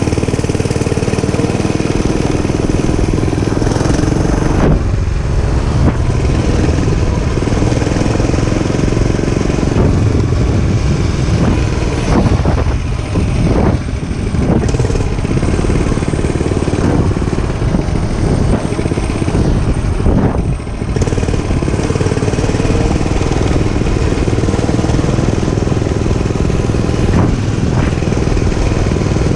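Dirt bike engine running under way, loud and steady, with the engine sound dropping briefly three times.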